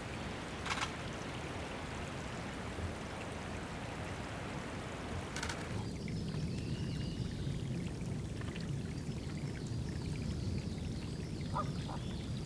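Water trickling and pouring steadily into a small woodland water spot used by birds for drinking and bathing. There is a sharp click under a second in and another about five seconds in, and from about six seconds the water turns lower and fuller.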